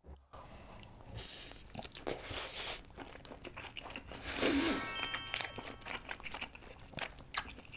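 Close-miked chewing of a mouthful of giant meat dumpling wrapped in its skin: soft biting, then a run of small crackles and smacks as he chews with his mouth closed. The chewing is busiest about halfway through.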